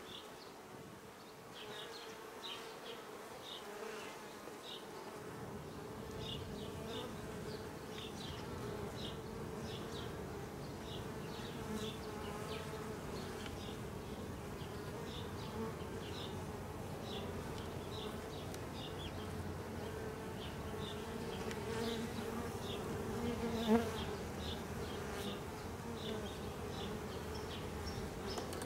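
Honey bees buzzing steadily around an open nuc hive during a frame inspection, a constant hum, with short high chirps repeating in the background. A brief knock about 24 seconds in.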